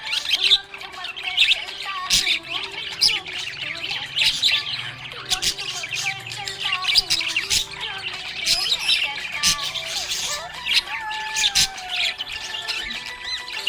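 Several budgerigars chirping and squawking in a continuous, dense overlapping chatter of short high calls.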